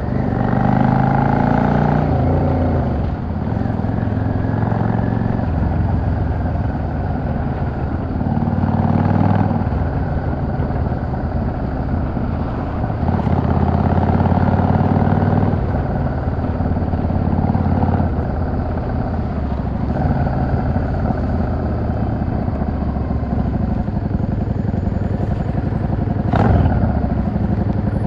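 Yamaha XVS 650 V-Star's V-twin engine running under way, its revs rising and falling several times as the bike accelerates and slows. A short, sharp sound cuts in near the end.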